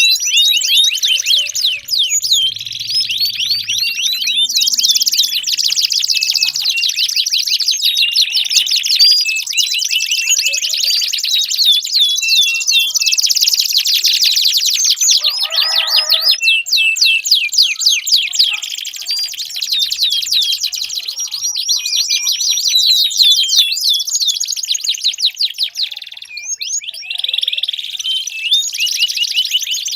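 Domestic canary singing a long, continuous song of rapid high trills and rolls, with barely a break.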